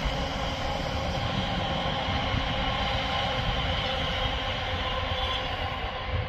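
London Overground electric passenger train running across a steel lattice bridge: a steady rumble of wheels on rails with a few steady whining tones held through it.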